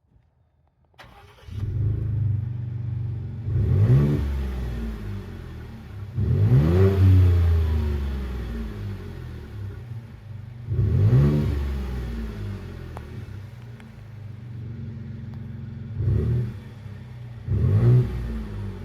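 Ford F-150's 2.7-litre V6 running through an MPI pulse-chamber exhaust and V6 muffler: it comes on suddenly about a second in, then idles with five throttle revs, the last two close together near the end.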